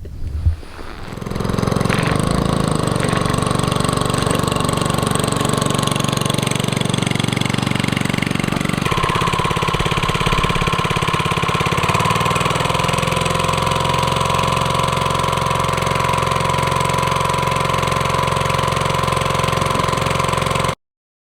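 Small single-cylinder mud motor, a Harbor Freight 3 hp engine on a Swamp Runner mini kit, coming up to running speed in the first two seconds and then running steadily. About nine seconds in its speed steps up, and the sound cuts off suddenly near the end.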